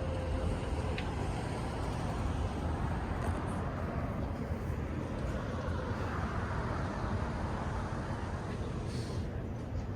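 Steady, even rumble of road traffic.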